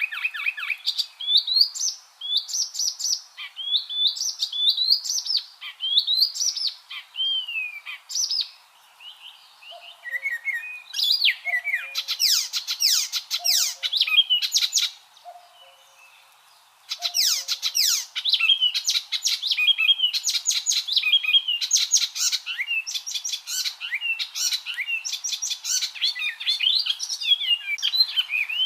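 Icterine warbler singing: a fast, varied stream of high chirps, whistled glides and rapid repeated notes, in phrases broken by a couple of short pauses.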